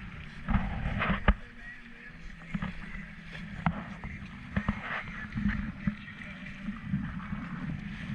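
A small sailboat under way: a steady low rumble and hiss of water and motion around the hull, broken by several sharp knocks and splashes. The loudest come about a second in.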